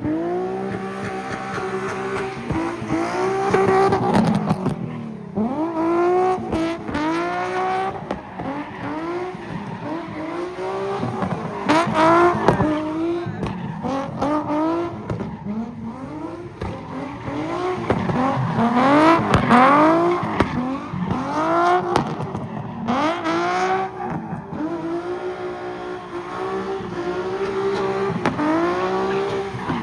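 A car engine revving up and falling back again and again, about once a second, with tires squealing, as a car spins donuts in a car pit.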